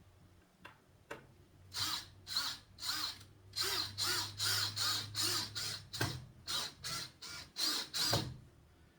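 A power drill driving wood screws into a wooden frame in a run of short trigger bursts, about two a second, with a steady low motor hum under the first part.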